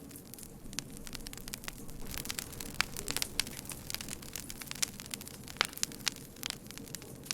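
Wood fire crackling, with irregular sharp pops and snaps over a low steady rumble of burning; the pops come thickest a few seconds in.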